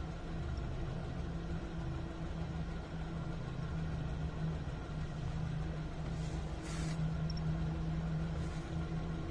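A vehicle's engine running with a steady low hum, heard from inside the cab. A short hiss cuts across it about six seconds in.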